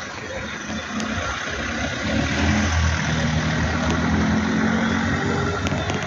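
An engine running steadily, growing louder over the first couple of seconds and then holding.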